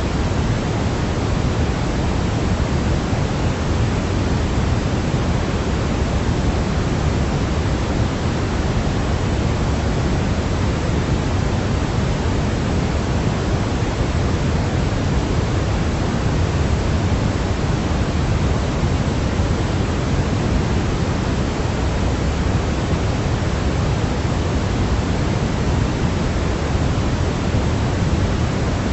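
Steady synthetic pink-style noise, a continuous even hiss weighted toward the low end, played as a sleep aid for a baby.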